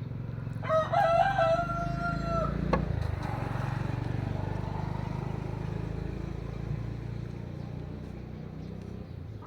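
A rooster crows once, a drawn-out call of about two seconds, followed by a sharp click, over a steady low rumble.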